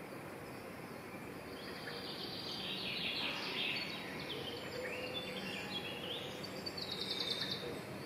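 Songbirds singing: high chirping phrases from about two seconds in, ending in a fast, high trill near the end, over a steady background hiss.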